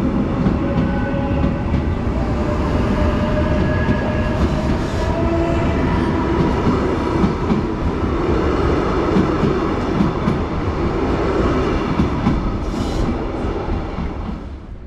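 SNCB Class 96 electric multiple unit pulling out past the platform: a steady rumble of wheels on rail with motor whine rising slightly in pitch, fading in the last second as the train draws away.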